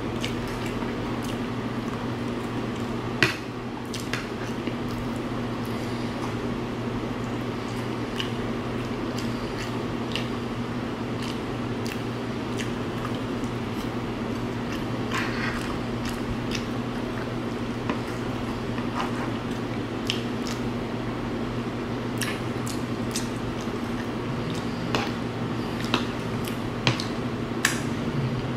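Close-up eating sounds: wet chewing and mouth noises with scattered sharp clicks, the loudest about three seconds in and a few more near the end, over a steady low hum.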